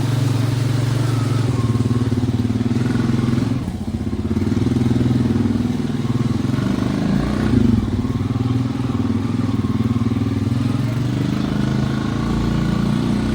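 Honda Rancher ATV's single-cylinder engine running at low speed, easing off briefly about four seconds in and revving up again a few seconds later.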